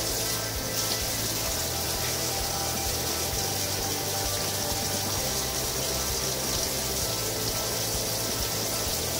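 Kitchen tap running steadily into a stainless steel sink, the stream splashing over crab pieces held under it.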